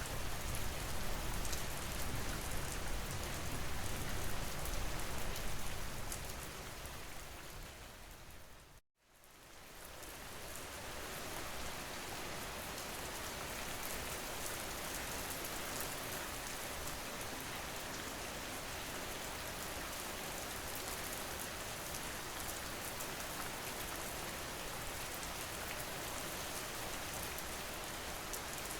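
Steady rain falling, a dense even hiss with some low rumble. About six seconds in it fades out to a brief moment of silence, then fades back in, steady again with less low rumble than before.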